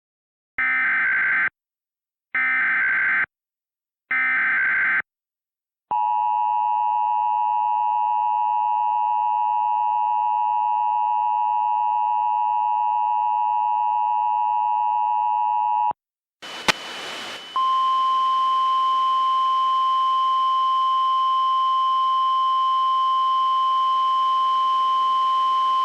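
Emergency Alert System tones: three short screeching SAME header data bursts, then the two-tone EAS attention signal held steady for about ten seconds. After a click, radio hiss comes in and the NOAA Weather Radio 1050 Hz warning alarm tone starts and holds.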